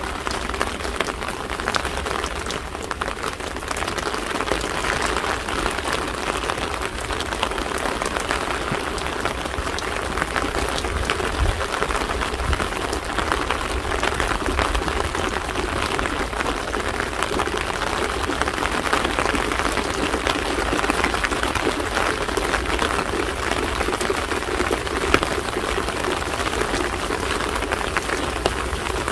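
Steady rain falling and pattering on hard surfaces, with a dense spray of fine drop ticks.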